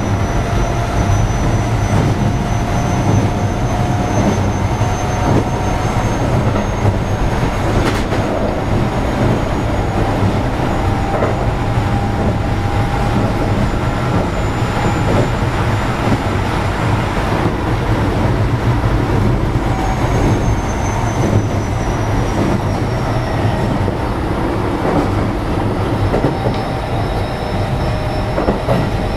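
Keio 7000-series electric train car running at speed, heard from inside the car: a steady rumble of wheels on rail, with faint thin tones drifting slowly up and down in pitch and a single sharp click about eight seconds in.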